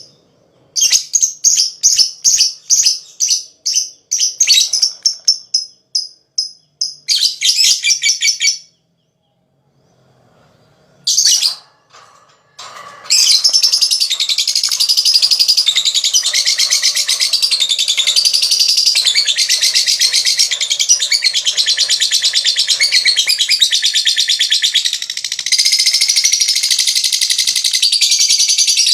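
Lovebird calling: a string of short, separate high chirps for the first several seconds, then after a brief pause a long, unbroken, rapid chattering trill (the 'ngekek panjang' that keepers prize) from about halfway through.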